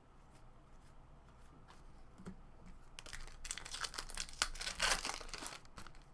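Trading-card pack's foil wrapper being torn open and crinkled: a few faint ticks, then about three seconds in a dense run of crackling that lasts a couple of seconds.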